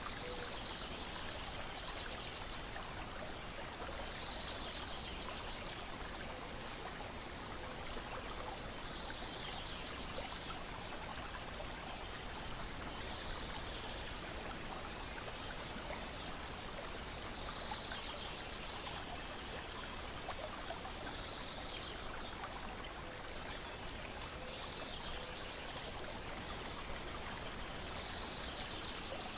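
Water lapping and trickling steadily, with short high birdsong phrases every few seconds.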